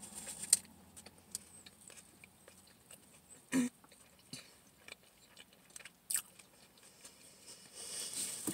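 A person chewing a mouthful of food close to the microphone: soft wet mouth sounds broken by scattered sharper smacks and clicks.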